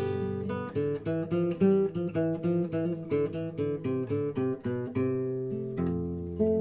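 Acoustic guitar playing a waltz: a run of single plucked melody notes over ringing bass notes, with a longer held chord a little before the end.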